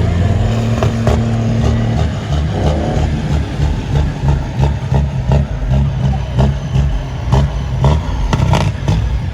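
Heavy truck engine running with a deep, uneven rumble, holding a steady drone for the first two seconds and then pulsing as it is revved, with scattered sharp clatters over it.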